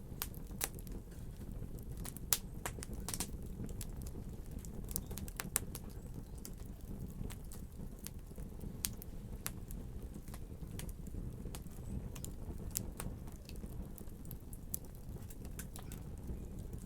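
Wood fire in a fireplace crackling: many irregular sharp pops and snaps over a steady low rumble.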